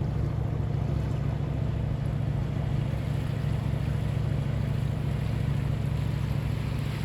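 Motor vessel's engine running steadily under way, a continuous low drone with a hiss of rushing air and water above it.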